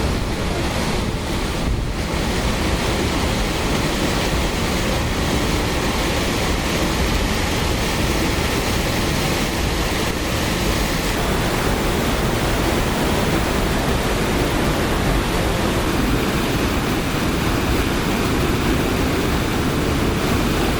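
Rushing water making a steady, even roar with no surges.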